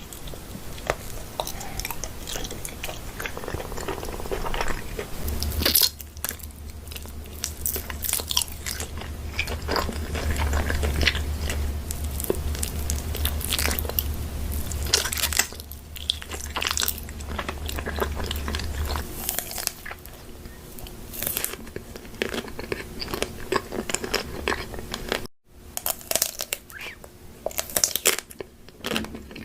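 Close-miked eating of crunchy food: a run of crisp crunching bites and chewing. A low hum sits under it through the middle, and the sound drops out briefly about 25 seconds in.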